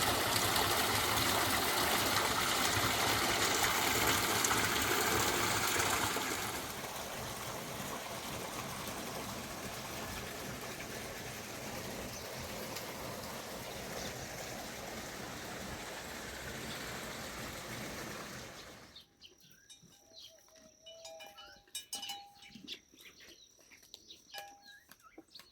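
Steady rushing noise of running water. It drops in level about six seconds in and cuts off abruptly near the end, leaving a few faint bird chirps.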